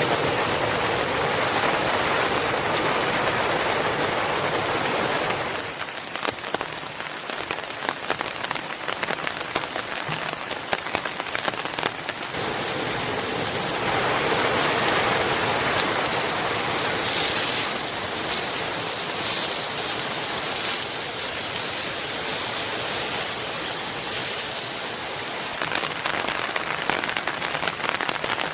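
Steady rain falling, with many small drop impacts ticking through it; the character of the rain changes abruptly a few times.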